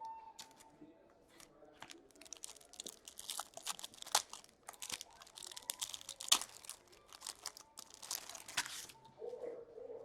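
Foil trading-card packs being torn open and their wrappers crinkled, a dense run of irregular crackling and tearing that eases off about nine seconds in.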